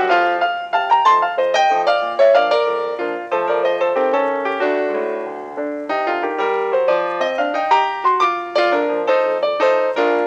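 Background piano music: a quick run of plucky notes, thinning to softer held chords in the middle before the fast notes pick up again.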